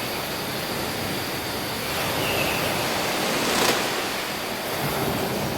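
A steady, even rushing noise with a single sharp click about three and a half seconds in.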